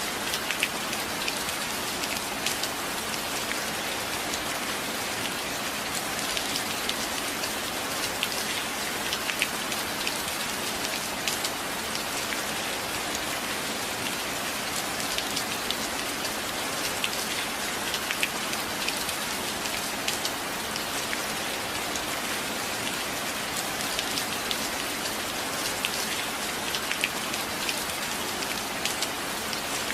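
Steady rain, an even hiss dotted with many close individual drops ticking sharply on a surface.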